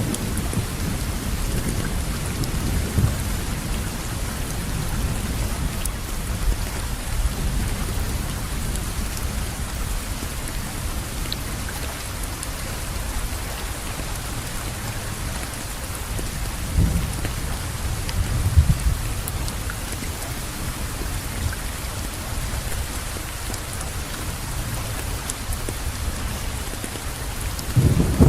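Steady rain falling, an even hiss, with low rumbles underneath that swell briefly about 17 and 18 seconds in.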